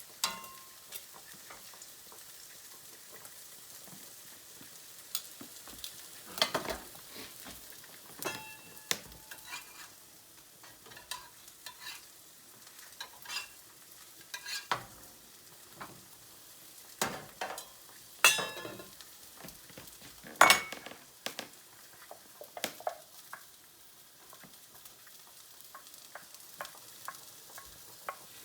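Irregular sharp clicks and crackles, roughly one a second and at uneven strength, over a faint steady hiss, with a few short high tones among them.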